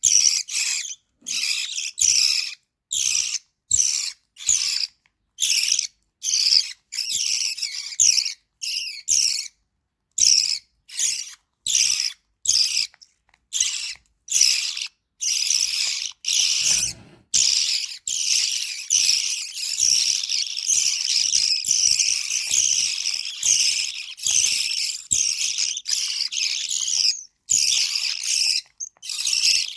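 Lovebird chicks giving high, buzzy begging calls while being fed, in short repeated bursts about one and a half a second that run together into a near-unbroken stretch past the middle.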